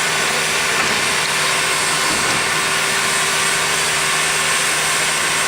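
Locomotive standing at the platform and running steadily: an even, loud hiss over a low steady hum.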